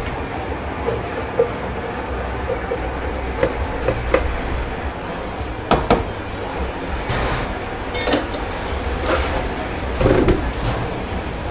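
Dish-pit clatter: dishes and utensils knocking and clinking every second or two over a steady low machine rumble, with two short hisses about seven and nine seconds in.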